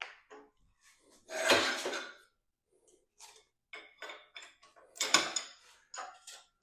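Hand tools and metal parts clinking and clattering: a longer rattle about a second and a half in, then a run of quick separate clinks in the second half.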